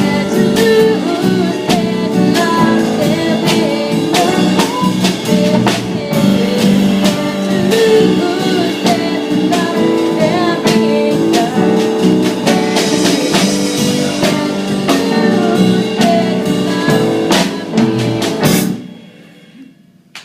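A band playing a song with singing, drum kit and guitar. The music cuts off sharply a little under two seconds before the end, as the song finishes.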